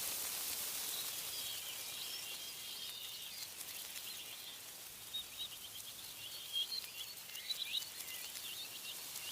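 Songbirds chirping over a steady high hiss of wind through tree leaves: a short warbling phrase about a second in, then a run of quick, short chirps through the second half.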